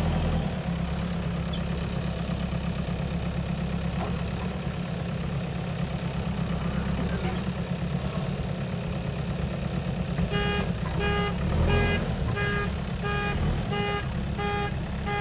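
Heavy diesel machinery engine running steadily. About ten seconds in, a reversing alarm starts beeping, roughly one and a half beeps a second.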